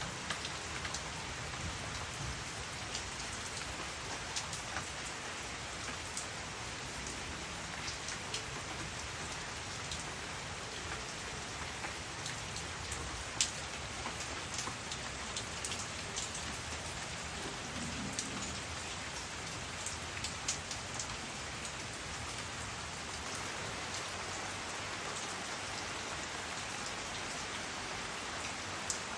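Steady rainfall, an even hiss with individual drops ticking sharply here and there.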